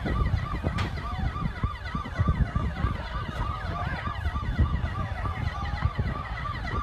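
Several emergency-vehicle sirens sounding at once, overlapping each other. The clearest is a fast yelp that rises and falls about three times a second, heard over a low, steady rumble.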